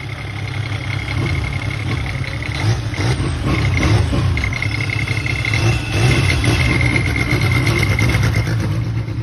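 Vehicle engine running with a steady low rumble, and a thin high whine that comes and goes over it.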